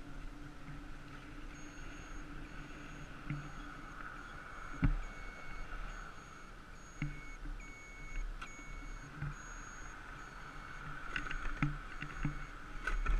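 Riding noise from a 48-volt electric bike heard through a GoPro's waterproof housing: a steady hum and whine with scattered knocks from bumps. A faint high beep repeats about twice a second through most of it.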